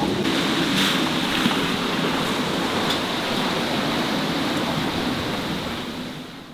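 Wind and sea rushing steadily around a sailing yacht under way in strong wind, with waves washing along the hull. The noise fades out near the end.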